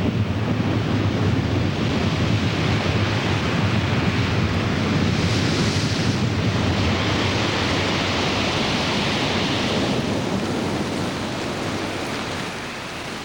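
Strong storm wind blowing, a steady rushing noise that swells about halfway through and eases toward the end.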